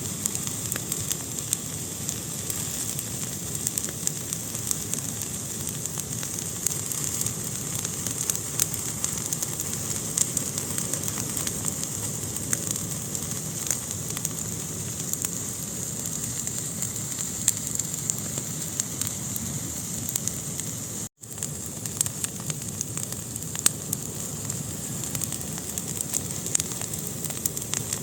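Wood fire burning in a fireplace: a steady hiss with frequent sharp crackles and pops. The sound cuts out for an instant about three-quarters of the way through.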